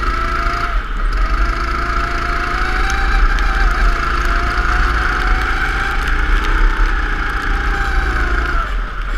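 Go-kart engine running, its pitch drifting slowly up and down over a steady rushing noise and a low rumble.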